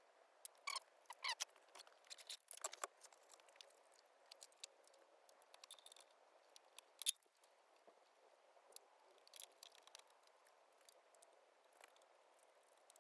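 Faint, scattered clicks and light taps of hand work, with a few small squeaks about a second in and one sharper click about seven seconds in.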